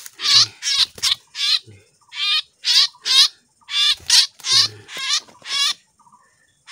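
White-rumped shama held in the hand, giving loud distress calls over and over, about two a second, until they stop shortly before the end.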